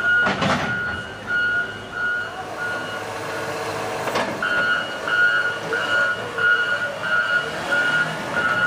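Truck's back-up alarm beeping at about two beeps a second, pausing for a couple of seconds midway before starting again. A short loud burst of noise comes just after the start, and a sharp click about four seconds in.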